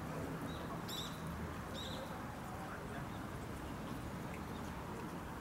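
Steady background murmur of ambient noise, with a few short, high bird chirps about half a second, one second and two seconds in.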